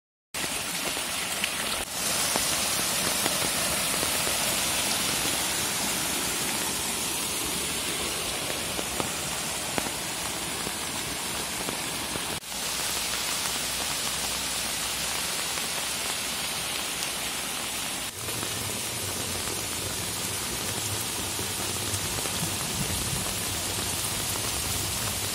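Steady rain falling on forest foliage, mixed with the rush of a small woodland stream. The hiss breaks off briefly three times where the shots change.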